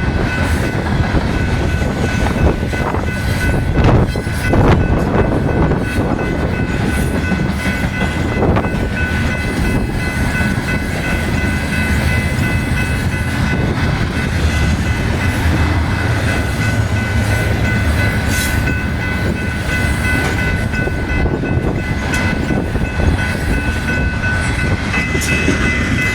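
Freight train of grain cars rolling past: a steady low rumble with scattered clicks from the wheels, and a steady high ringing tone throughout.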